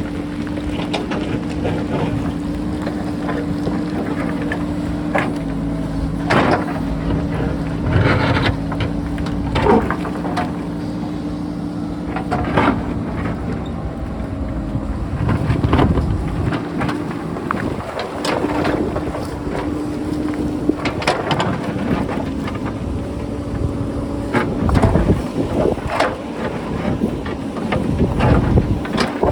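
JCB backhoe loader's diesel engine running under load, a steady hum that shifts in pitch and strength at times, with repeated knocks and clanks of the bucket striking and moving rock. Some wind on the microphone.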